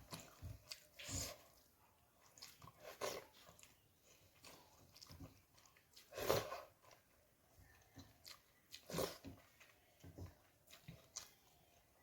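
Close-up chewing and biting of food, with scattered soft crunches and mouth clicks at uneven intervals, the loudest about six and nine seconds in.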